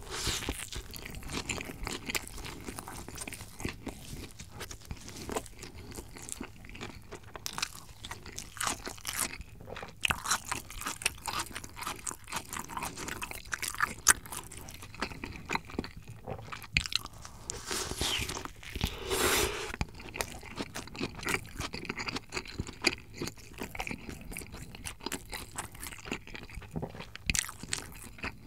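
Close-miked chewing of a hamburger, with soft crunching and wet mouth clicks. There is a louder, denser stretch of chewing about two-thirds of the way through.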